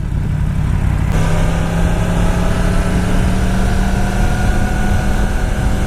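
Motorcycle engine running under an even rush of wind and road noise. About a second in the engine note changes, then slowly falls.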